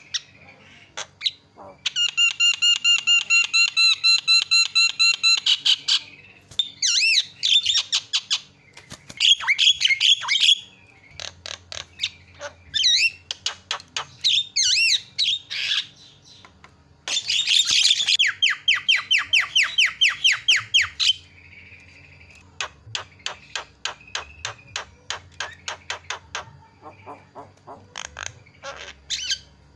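Javan myna (jalak kebo) calling noisily, in the kind of recording used to set other mynas calling. It gives loud, rapid rattling trills twice, squeaky whistled glides, and long runs of sharp chattering notes.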